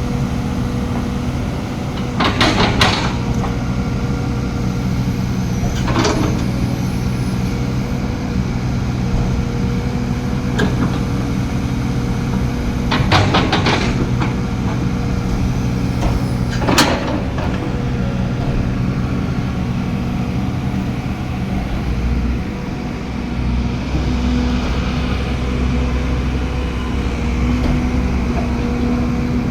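LiuGong 915E excavator's diesel engine running steadily under work, with several sharp knocks scattered through it, loudest about two seconds in and about halfway through.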